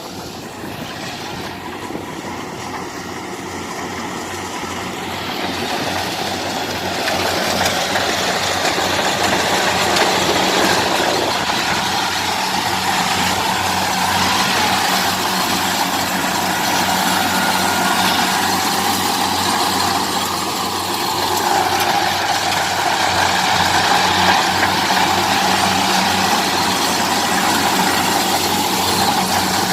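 Kubota DC-70 combine harvester's diesel engine and machinery running under load, a steady mechanical din that builds over the first several seconds and then holds loud and even.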